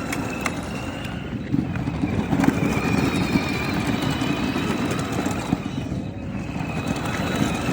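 Children's electric ride-on dirt bike and four-wheeler running: a steady rumble of tyres rolling over the ground, with a faint high motor whine.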